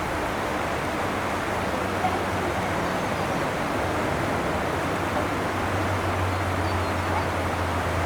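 Steady rush of water, with a low hum that grows stronger about six seconds in.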